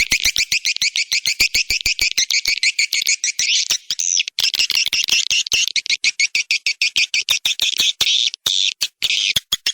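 Swiftlet lure call: a recording of edible-nest swiftlets twittering in a dense, fast run of high chirps, broken by many sharp clicks.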